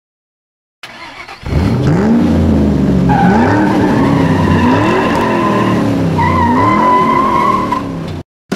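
Intro sound effect of a car engine revving up and down several times, with tyres squealing from about three seconds in. It starts about a second in and cuts off suddenly near the end.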